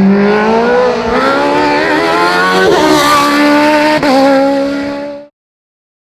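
Osella FA 30 Evo race car engine at high revs, its pitch climbing as it accelerates and breaking briefly at a couple of quick gear changes. The sound cuts off suddenly a little after five seconds in.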